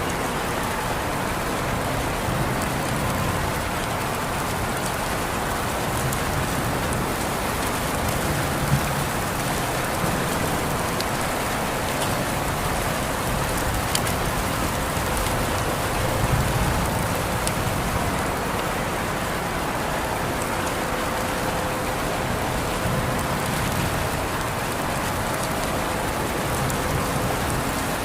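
Steady rain falling, with scattered individual drops ticking on a hard surface.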